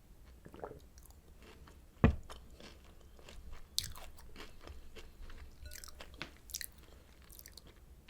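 Close-miked chewing and crunching of Oreo O's cereal, with crisp crackles through the middle. A single sharp knock about two seconds in is the loudest sound.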